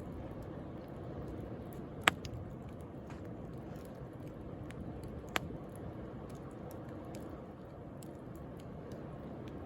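Wood bonfire crackling, with scattered small snaps and two sharp loud pops about two and five seconds in, over a steady wash of sea waves.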